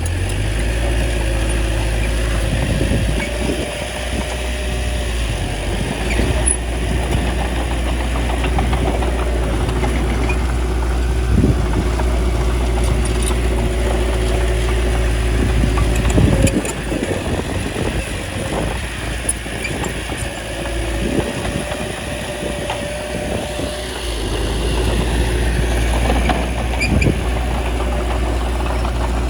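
Small bulldozer's diesel engine running steadily, with a few scattered metallic clanks.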